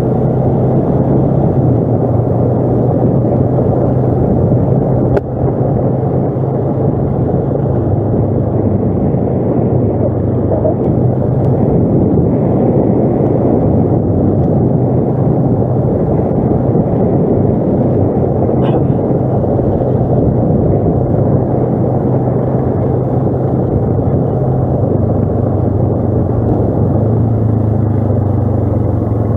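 ATV engine running steadily while riding, a constant low hum under rough noise, with one sharp knock about five seconds in.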